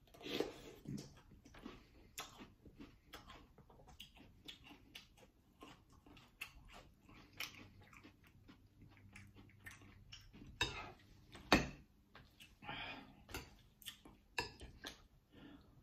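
Cap'n Crunch's Crunch Berries cereal in milk being chewed, many small crunching crackles, with a metal spoon clinking in a glass bowl. Two louder knocks come a little over ten and eleven seconds in.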